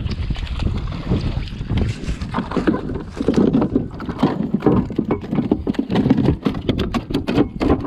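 Strong wind buffeting the microphone and water slapping against a plastic fishing kayak. A quick run of sharp clicks and knocks comes near the end.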